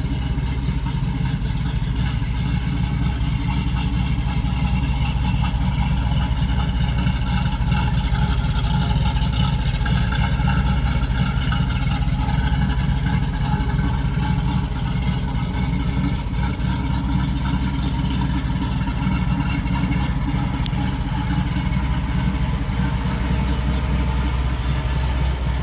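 A 1973 Ford Bronco's 302 V8 crate engine idling steadily, breathing through headers and dual exhaust.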